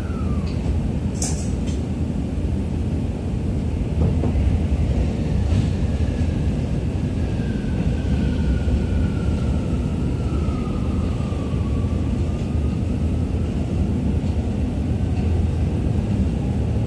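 Running noise inside a Tokyo Metro 17000 series electric train car: a steady rumble of wheels on rail that grows louder about four seconds in as the train pulls away from a station. A sharp click comes about a second in, and a thin whine slowly falls in pitch through the middle.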